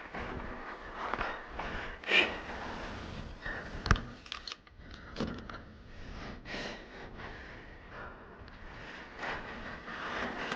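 Mountain bike clicking and rattling, with irregular sharp clicks and a louder knock about four seconds in, over a steady hiss. The bike's chain has just come off.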